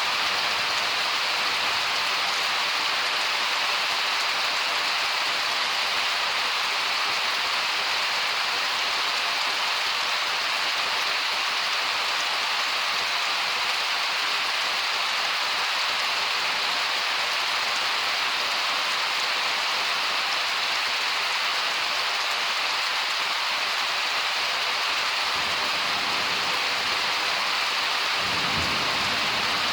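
Steady heavy summer rain hissing. A low rumble of thunder comes in near the end and swells for a few seconds.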